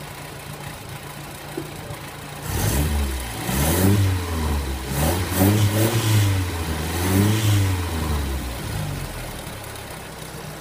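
Reconditioned Sunbeam Alpine four-cylinder engine on a test bench, idling, then revved repeatedly for about six seconds, rising and falling in pitch, before settling back to a steady idle.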